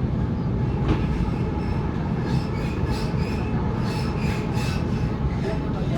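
Waratah electric suburban train in motion, heard from inside the carriage: a steady rumble of wheels on track, with faint intermittent squeals and rubbing from the wheels on the rails.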